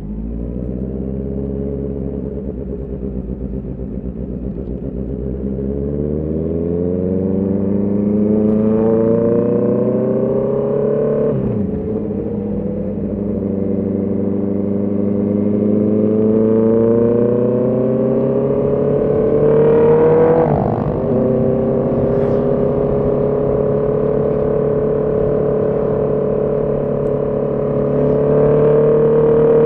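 Honda CB650R inline-four engine pulling the motorcycle up through the gears: the engine note rises steadily, drops sharply at two upshifts about a third and two thirds of the way in, and climbs again after each.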